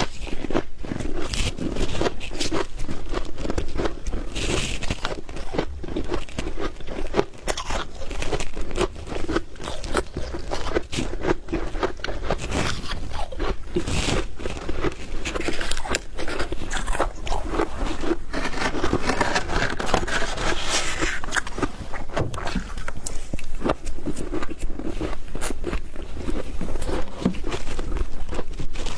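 Frost being scraped off by hand and bitten and chewed: a dense run of crisp, irregular crunches and scrapes.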